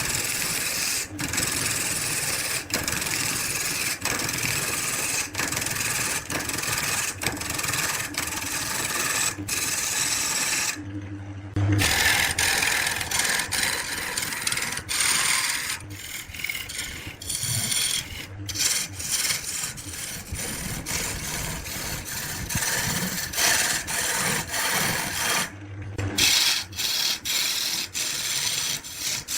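Wood turning on a lathe: a cutting tool rasping and scraping against the spinning wood, with two short breaks about eleven and twenty-five seconds in.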